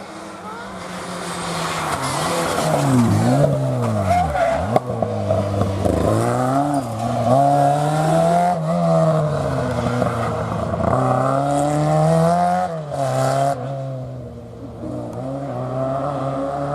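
Historic rally car engine revving hard, its pitch climbing and falling again and again as it brakes, changes gear and accelerates away.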